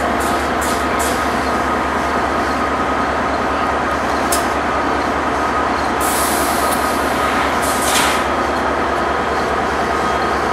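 A train rolling past, a steady, loud noise of wheels on rail with a few short high-pitched bursts over it, the longest about six seconds in.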